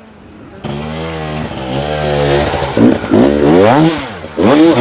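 Dirt bike engine revving hard, coming in loud about half a second in, its pitch climbing and dropping again and again with the throttle.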